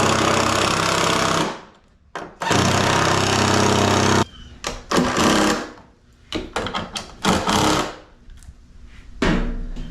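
A power tool running in two loud bursts of about two seconds each, then several short bursts.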